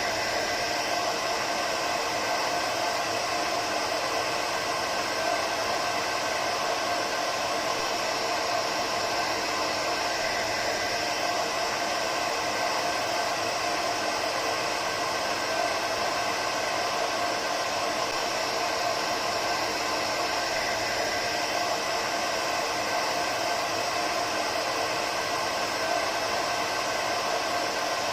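Hair dryer running steadily: an even rushing of air with a faint motor hum, unchanging throughout.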